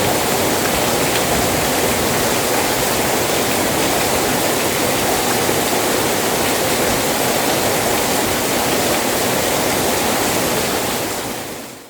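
Rain falling steadily, a dense even hiss, fading out in the last second.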